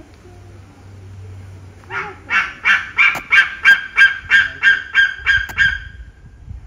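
A bird calling loudly: about a dozen calls in a row, roughly three a second, starting about two seconds in and stopping near the end.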